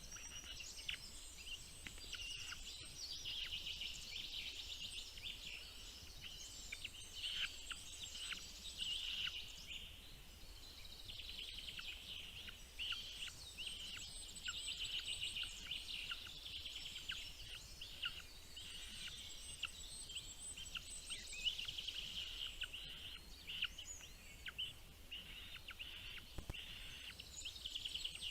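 Small birds chirping rapidly in many short, high, squeaky notes that overlap almost without pause: nestlings begging for food as the parents feed them.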